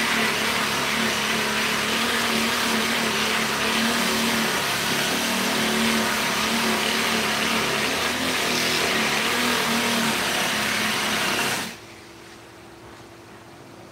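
Electric power tool motor running steadily, its pitch wavering slightly, then switched off about twelve seconds in, leaving a fainter steady hum.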